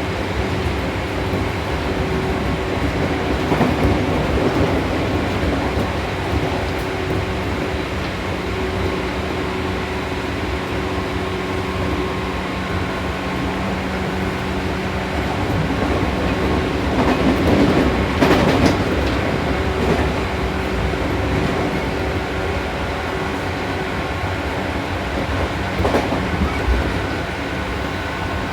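Seibu New 2000 series electric train running at speed: steady traction motor and gear hum over wheel-on-rail noise, growing louder for a couple of seconds past the middle, with a sharp click from the rails near the end.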